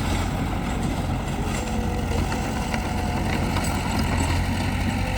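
Heavy diesel engine of earthmoving machinery running steadily at low revs, with a few faint clicks.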